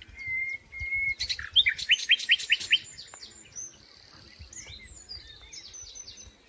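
Birds singing, several songs overlapping. A few level whistled notes come first, then a quick loud run of rising chirps about a second in, then scattered, varied chirps.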